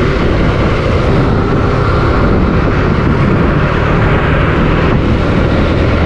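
Suzuki Gixxer 155's single-cylinder engine running steadily while riding, under a loud, even rush of wind on the microphone.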